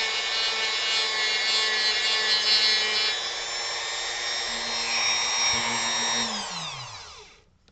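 Dremel rotary tool running at high speed with a steady whine as its bit carves into wood; about six seconds in it is switched off and the whine falls in pitch as the motor spins down to a stop.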